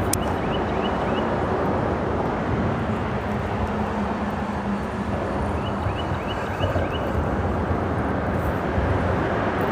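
Steady rumble of freeway traffic passing over the bridge overhead, with a hum that holds for a few seconds in the middle. Two short runs of faint high chirps sound, one near the start and one about six seconds in.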